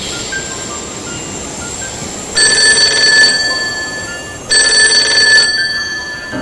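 Telephone ringing: two rings, one about two and a half seconds in and one about four and a half seconds in, each a bright, steady, high-pitched ring lasting about a second and then dying away.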